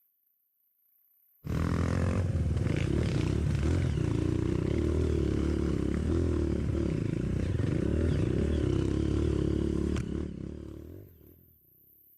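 Trail motorcycle engine running loud and close, cutting in abruptly and holding steady for about eight seconds before fading out.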